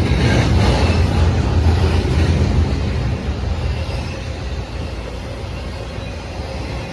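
Freight train rolling past, a steady low rumble of wheels on rail that eases somewhat after about two and a half seconds.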